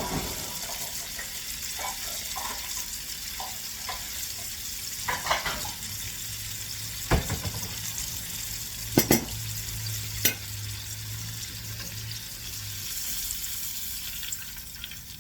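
Chicken nuggets sizzling as they fry in hot oil, a steady hiss, with a few sharp clinks about five, seven, nine and ten seconds in.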